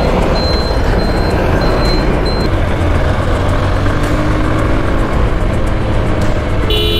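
Honda X-Blade single-cylinder motorcycle riding in traffic, its engine under a heavy rush of wind on the helmet microphone. A short high beep repeats through the first couple of seconds, and a vehicle horn sounds briefly near the end.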